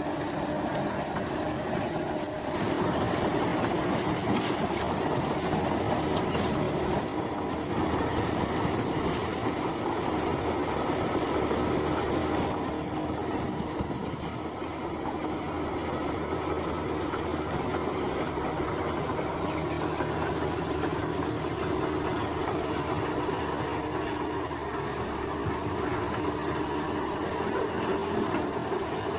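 Heavy diesel earthmoving machinery running steadily at work, with a high pulsing whine over it.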